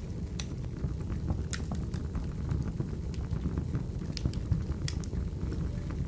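Recorded wood fire burning: a steady low rumble of flames with scattered sharp crackles and pops from the burning firewood.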